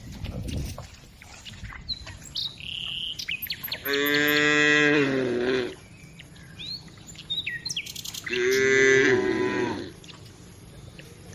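A cow mooing twice, two long calls about four seconds apart, the first falling in pitch at its end. Small birds chirp between the moos.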